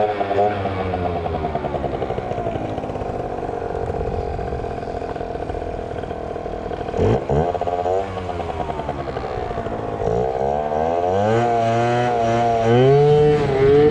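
Small two-stroke scooter engine revving. Its pitch sags over the first few seconds and jumps with a sharp throttle blip about seven seconds in. Near the end it rises and falls several times in quick succession.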